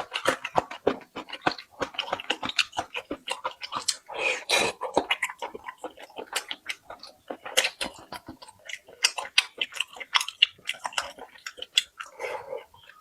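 Close-miked chewing: rapid, irregular wet smacking and crunching of food in the mouth, with a longer noisy bite or slurp about four seconds in.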